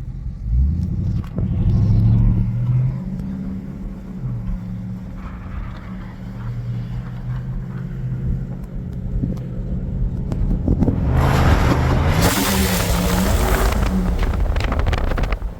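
Dodge Scat Pack's 6.4-litre HEMI V8 accelerating from a light, its revs climbing in pitch about a second in, then pulling hard again later with a loud rush of wind noise through the open window before it eases off near the end.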